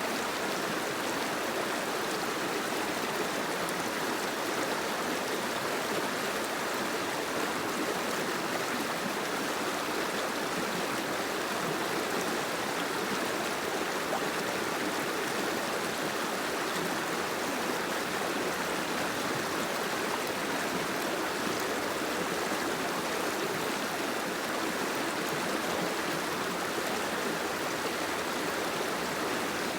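Steady water noise, an even, unbroken hiss with no single drops or splashes standing out.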